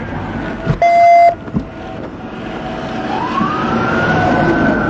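An emergency vehicle siren begins a wail about three seconds in, rising in pitch and getting louder. About a second in there is a loud half-second beep.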